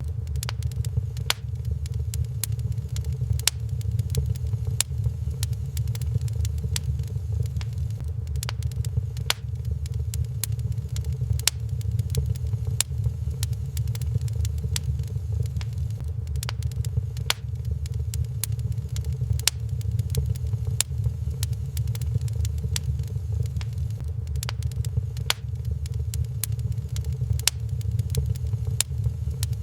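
Wood fire crackling in a fireplace, with many sharp irregular pops and snaps over a steady low rumble.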